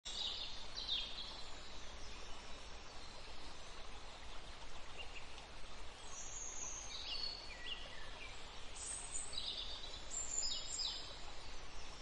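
Wild birds giving short high chirps and calls now and then, some falling in pitch, over a faint steady background of outdoor noise.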